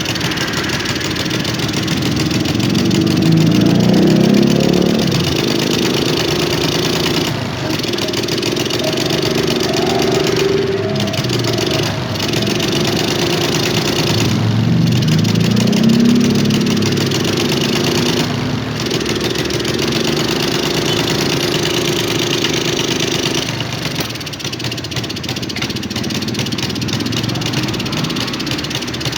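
Suzuki Smash 110's single-cylinder four-stroke engine running and being blipped, revs swelling twice with several brief stumbles. This is the sputter under throttle ('brebet') that the owner puts down to an ignition fault (CDI, stator, rectifier, coil or battery).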